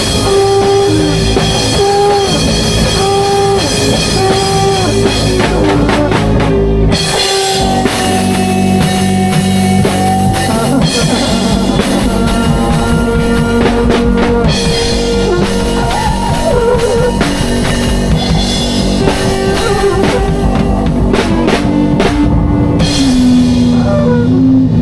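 Live band jamming on a drum kit and other instruments, with a lead line of held notes over a steady groove. The low end drops out briefly about seven seconds in.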